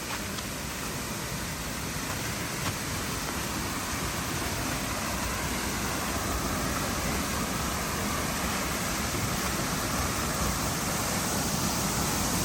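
Steady rush of falling water from a waterfall, an even hiss that grows slowly louder.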